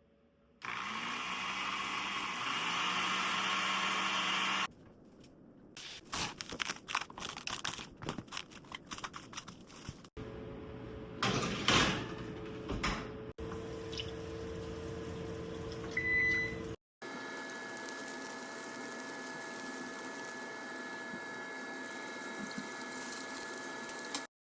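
Kitchen sounds in several abrupt cuts: a steady rush like running or pouring water, then a run of quick irregular clicks and knocks, then a long steady hiss with a faint hum.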